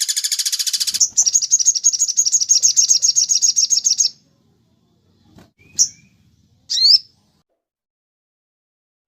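Songbird singing a fast, even, high-pitched trill that shifts to a higher, thinner trill about a second in and stops abruptly about four seconds in. Two short, sharp chirps follow a couple of seconds later.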